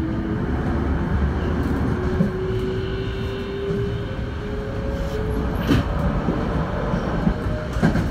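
Toei 5300 series subway train running at speed, heard from inside the front car: a steady rumble of wheels on rail under the whine of its Mitsubishi GTO VVVF inverter, which slowly rises in pitch. Two sharp clacks from the wheels near the end.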